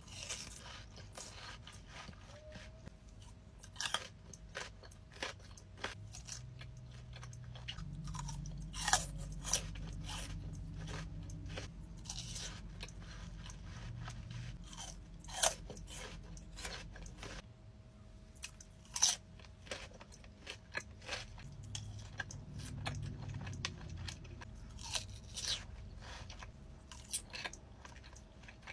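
Close-miked mukbang eating: biting into and chewing crisp food, with irregular sharp crunches scattered throughout.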